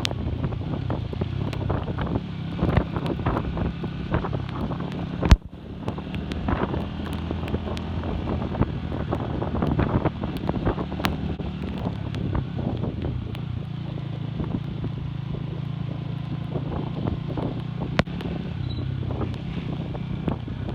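Classic Earl 150 cafe racer motorcycle engine running steadily while riding, under wind buffeting on the microphone. A single sharp knock sounds about five seconds in, and a lighter one near the end.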